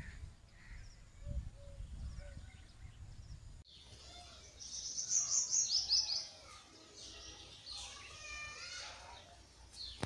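Small songbirds chirping and singing in a tree: a quick run of high chirps, the loudest sound, comes about a second after an abrupt change in the sound, and a repeated song phrase follows a few seconds later. Before the change there is a low rumble with faint bird calls.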